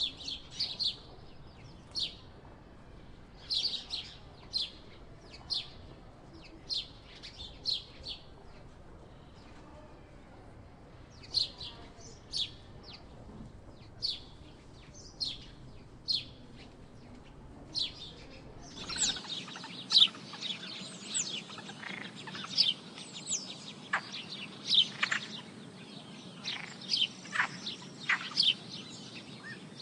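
House sparrows chirping: short, sharp single chirps about once a second, then from about two-thirds of the way through a busier run of overlapping chirps.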